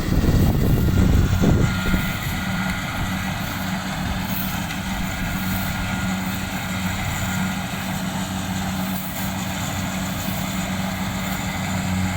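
An engine running steadily with a low, even hum; it is louder and rougher for the first second or two, then settles to a steady level.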